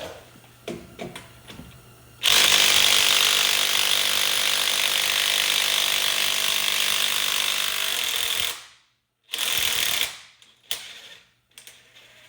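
Impact wrench hammering on a bolt in one long run of about six seconds, then a shorter burst and a brief blip.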